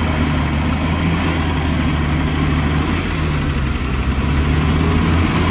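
Heavy diesel engine of earthmoving machinery running steadily with a low drone. Its pitch dips slightly about halfway through.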